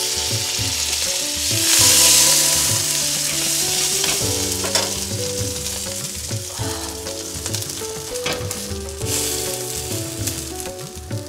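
Butter and masala sizzling on a hot tawa as halved pav buns are pressed down to toast in it. The sizzle swells about two seconds in, when the buns go into the fat, then settles to a steady fry.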